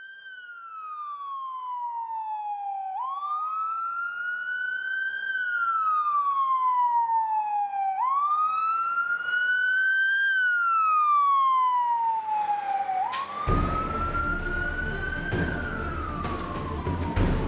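Emergency vehicle siren on a slow wail, rising and falling in pitch about every five seconds, three full cycles. About 13 seconds in, music with a beat comes in under it.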